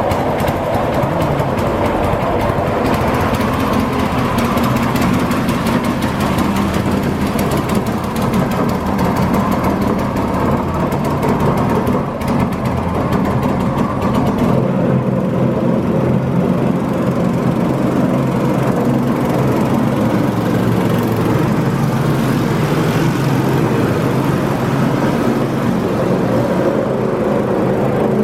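Predator 196cc single-cylinder engine running steadily, driving a 100 mm jet unit, with some changes in its note partway through. A noise in the drive is heard that the owner puts down to the grub screw slipping on the sprocket.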